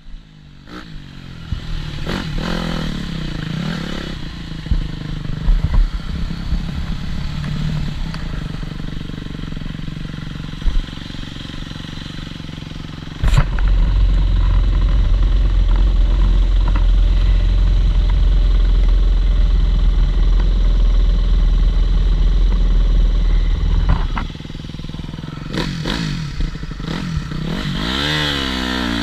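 TM Racing 250 Fi motocross bike engine revving up and down repeatedly as it is ridden, with crackles and clatter. A heavy, steady low rumble cuts in about halfway through and stops abruptly some ten seconds later. The engine climbs in pitch again near the end.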